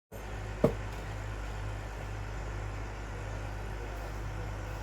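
Engine idling steadily with a low hum, with a single sharp knock about half a second in.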